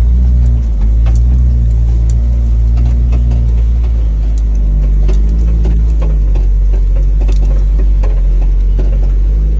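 Truck engine running steadily with a low, even note that shifts slightly in pitch about halfway through.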